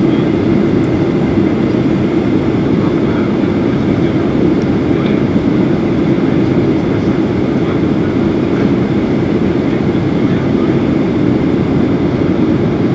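Steady cabin roar inside a Boeing 737-800 in flight: the rush of its CFM56-7B engines and of the airflow, deep and even, with a faint steady high whine above it.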